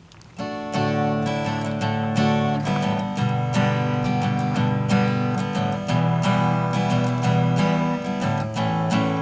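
Acoustic guitar strummed chords, the instrumental introduction of a folk-country song, starting about half a second in.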